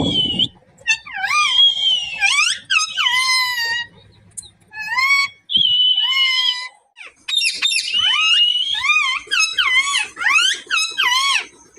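Pet parrot calling almost nonstop: a run of high whistled squawks that slide up and down in pitch, some held briefly on one note, with a few short pauses.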